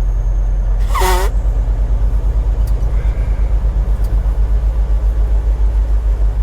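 Low, steady drone of a semi-truck's engine and road noise heard inside the cab while driving, pulsing rapidly in loudness. About a second in, a brief vocal sound falls in pitch over the drone.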